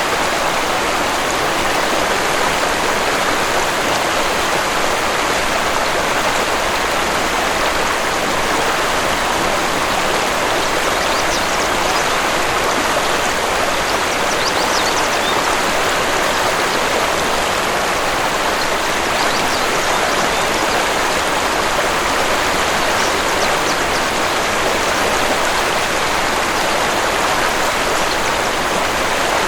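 Waterfall rushing steadily, with a few faint, short, high bird chirps in the middle.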